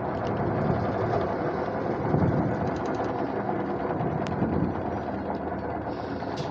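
Whirlpool fully automatic top-load washing machine turning its tub with a steady mechanical whir and rumble, with some uneven pulsing. This is the load-sensing stage after start, the machine working out how much water the load needs.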